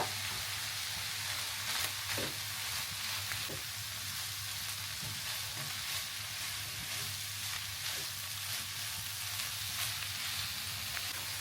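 Chopped cabbage, carrot, capsicum and chicken frying in hot oil over medium-high heat, a steady sizzle, with a sharp click at the very start and a few faint clicks of stirring.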